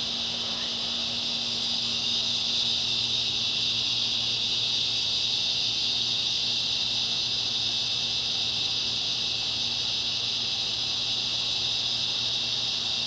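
Evening chorus of cicadas: a steady, unbroken high-pitched shrill that swells slightly about two seconds in, with a faint low steady hum beneath it.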